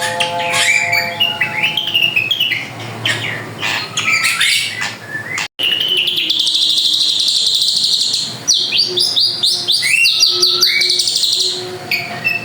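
Drongo (srigunting) singing a busy, varied song of rapid chirps, whistled slides and buzzy trills, with a split-second break just under halfway.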